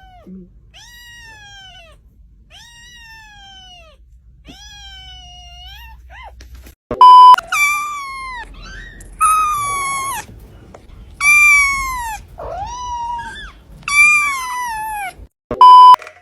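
A cat meowing over and over. First come four quieter meows that drop in pitch at the end, then about five louder, longer meows. A short, steady electronic beep, the loudest sound, cuts in twice: just before the louder meows and again near the end.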